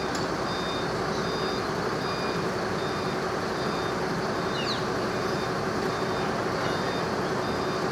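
Vehicle reversing alarm beeping in an even repeating pattern, about three beeps every two seconds, over the steady running of a heavy vehicle's engine.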